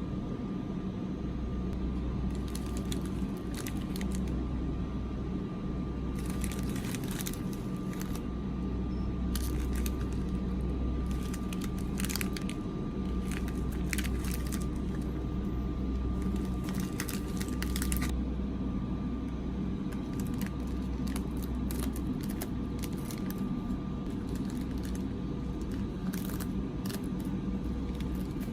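Snack packaging being handled and opened: crackly crinkling and rustling in short spells, over a steady low hum.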